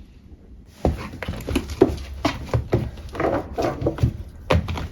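A cat making a quick, irregular run of short vocal sounds, one after another, starting about a second in.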